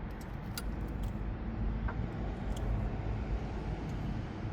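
Steady low rumble of outdoor background noise, with a few sparse light clicks from a socket wrench being turned on the radiator fan temperature sensor.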